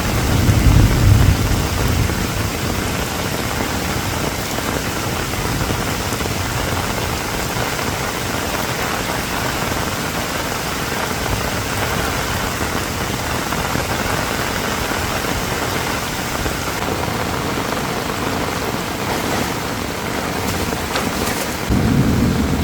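Heavy rain falling steadily, an even hiss of drops. A low rumble rises over it in the first second or so and again near the end.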